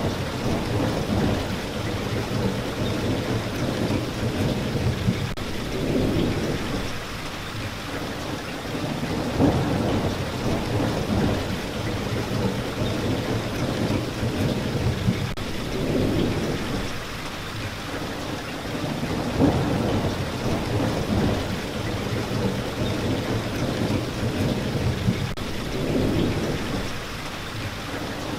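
Steady rain falling, with low rumbles of thunder that swell and fade again every few seconds.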